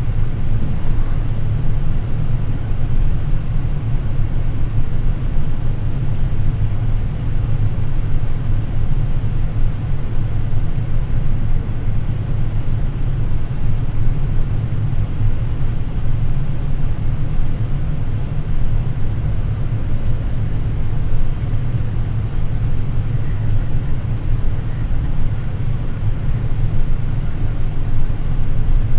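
Boeing 787 flight deck noise on final approach, gear down and flaps 30: a steady, even low rumble of airflow and aircraft noise.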